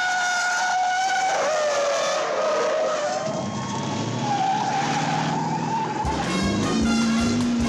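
Car tyres squealing in a drawn-out skid, wavering in pitch, with a car engine running hard underneath. About six seconds in, fast rhythmic music starts.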